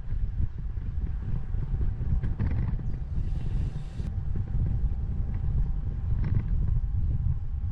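Wind buffeting the microphone of a bike-mounted camera while cycling, a steady low rumble. A faint steady tone runs underneath, and a brief hiss comes about three seconds in.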